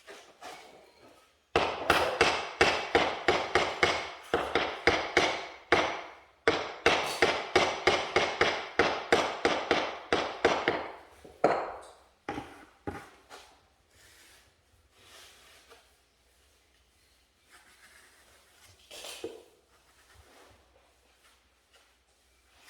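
Rapid hammering, about four hard blows a second for some ten seconds, then a few separate knocks, after which it goes nearly quiet.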